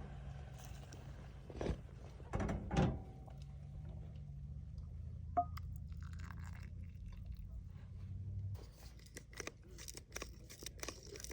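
Someone eating a steak fajita, with crunching and chewing clicks that come thick and fast after about eight seconds. A few knocks come earlier, over a low steady hum that stops at about the same point.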